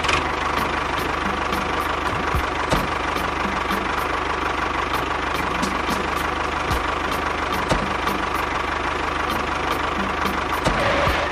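A small engine running steadily, as on a mini tractor or bulldozer. It comes in abruptly at the start and drops out briefly just after the end.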